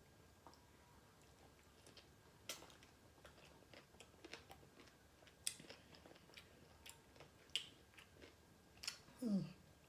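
Close-miked chewing of a crisp pickle slice spread with whipped topping: soft wet crunches and mouth clicks every second or so. Near the end there is a short hummed voice sound.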